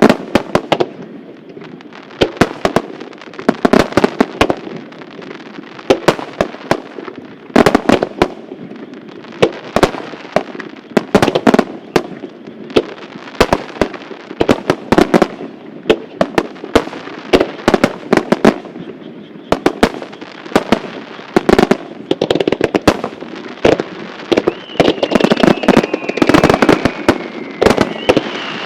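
Japanese star mine (rapid-fire fireworks barrage) going off: dense volleys of sharp bangs, several a second, over a continuous rumble of bursts. A falling whistle from a whistling shell joins in near the end.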